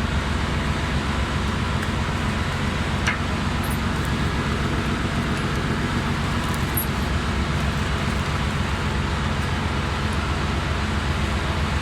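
Steady drone of engine-room machinery, a constant low hum with a noisy wash over it, and one short metallic click about three seconds in.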